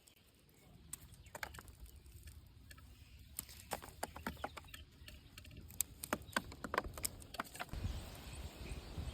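Irregular small snaps and rustles of bird's eye chili pods being picked by hand from the plant, the stems breaking off one by one. A low rumble comes in near the end.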